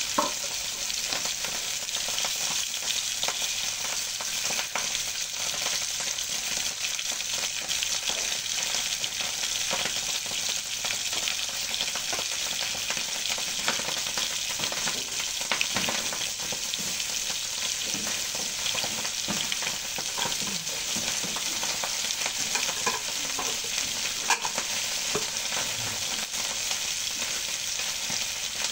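Food sizzling steadily in hot oil in a frying pan, with a spatula clicking and scraping against the pan now and then as it is stirred.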